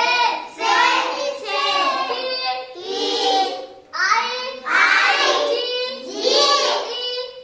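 Young children singing, high-pitched voices in sing-song phrases with short breaks between them.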